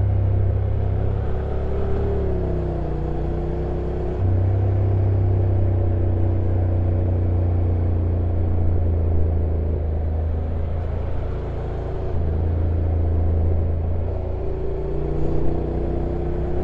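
Honda NC750X DCT motorcycle's parallel-twin engine running at low revs on a downhill ride. The note glides down about two seconds in, steps up in level a little after four seconds, and changes pitch again twice near the end.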